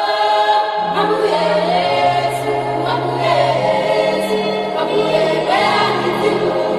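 Choir singing with accompaniment, in a gospel style, with a steady held bass note beneath.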